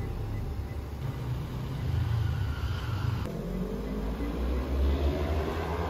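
Car engine and road noise heard from inside the cabin while driving at low speed; about halfway through, the engine's pitch rises steadily for a couple of seconds as the car picks up speed.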